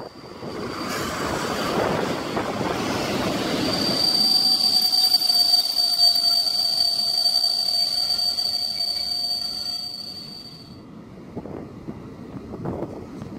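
Passenger train hauled by an EU07 electric locomotive moving along the platform: wheel and carriage rumble with a steady high-pitched squeal, loudest in the middle. The squeal stops abruptly about eleven seconds in, leaving a quieter rumble.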